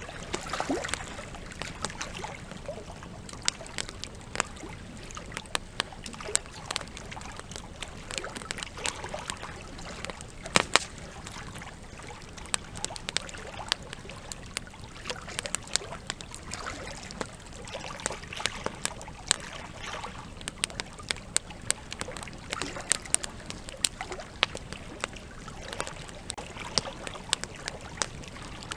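Campfire crackling with frequent sharp pops, the loudest about ten and a half seconds in, over the steady rush and trickle of a flowing river.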